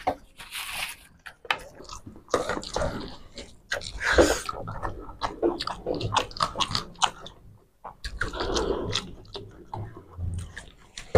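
Close-up eating sounds from people eating rice and curry by hand: chewing and mouth noises with small clicks and squishes, in irregular bursts with a short break about eight seconds in.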